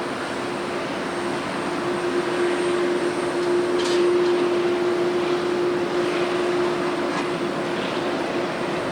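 Jet airliner passing on takeoff or landing: a steady engine noise with a held hum, swelling to its loudest about four seconds in and easing off.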